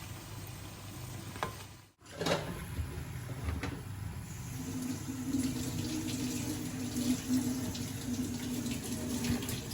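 Water running steadily, with a low steady hum coming in about halfway through.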